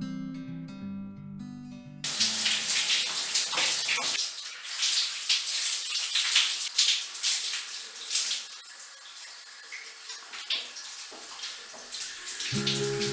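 Acoustic guitar music cuts off abruptly about two seconds in, giving way to the dense hiss and spatter of heavy rain; the guitar music comes back near the end.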